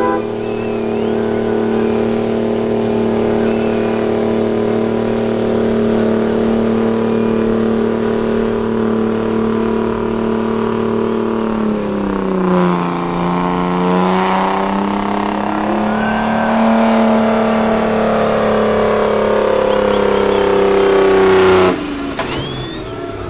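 Semi-truck diesel engine running flat out under load while pulling the weight sled. Its pitch sags about twelve seconds in, climbs back, then drops off abruptly near the end as the throttle is released.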